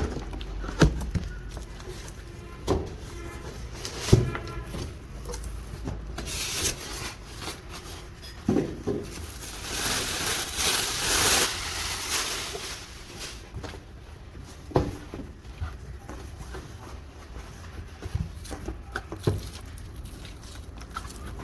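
Washing machine's cardboard box and packing being handled and opened: scattered knocks and thumps, with a short rasping rub about six seconds in and a longer one around ten to twelve seconds in.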